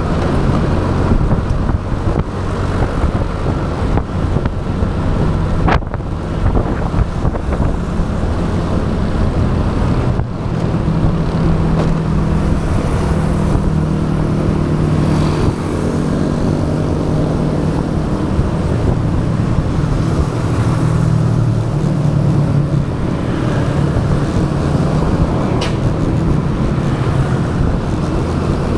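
Motorbike engine running while riding, its pitch rising and falling with speed, under steady road and traffic noise. Two brief clicks, about six seconds in and near the end.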